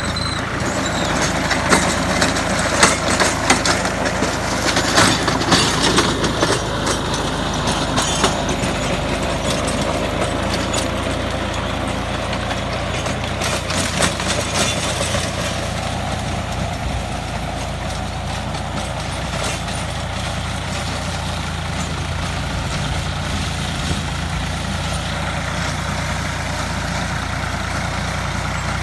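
Tractor diesel engine running steadily under load while driving a rotary tiller, with sharp knocks and clatter over the first half that thin out later on.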